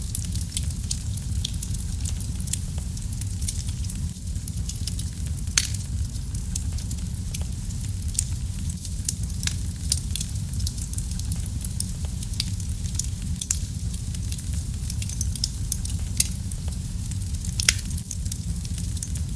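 Wood fire burning in a fireplace: a steady low rumble of flame with scattered sharp crackles and pops, a handful of louder snaps spread through.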